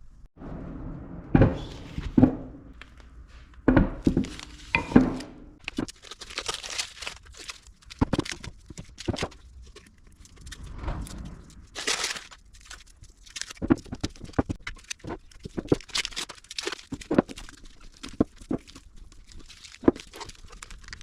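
Hand work on metal car parts: irregular knocks, clinks and clicks, a few of the early knocks ringing briefly, with rustling in between, as grease seals and front suspension arms are handled and fitted.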